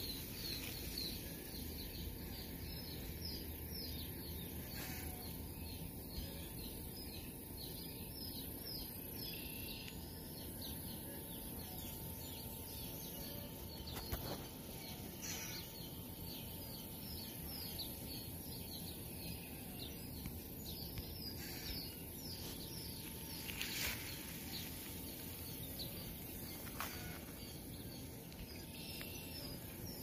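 Outdoor ambience of birds chirping in repeated runs of short, quick, high falling notes over a steady background hiss, with a couple of brief knocks.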